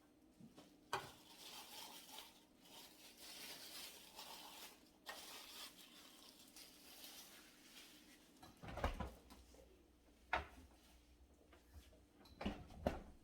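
Rustling with several sharp knocks of household items being handled and set down, the knocks clustered in the second half.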